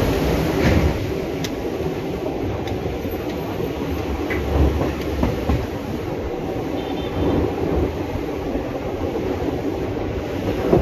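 Indian Railways express passenger coach running at speed, heard from the coach side: a steady rumble of wheels on rail with scattered short knocks from the track.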